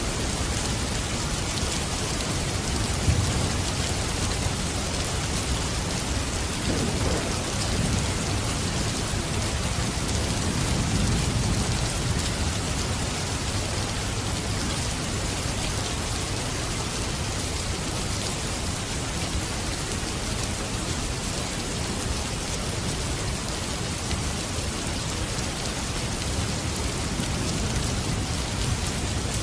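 Steady rain falling, with low rumbles of thunder swelling a few times, the strongest about eleven seconds in.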